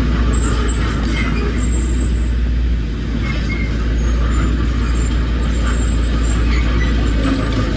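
Heavy diesel earthmoving machinery running steadily, a deep continuous engine rumble.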